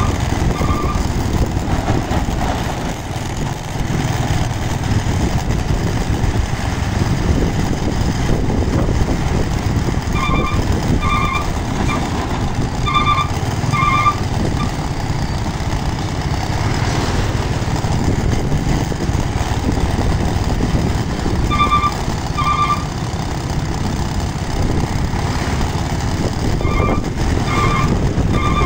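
Heavy truck diesel engine running with a steady low rumble, while a high electronic reversing beeper sounds in several short bursts of quick paired pips.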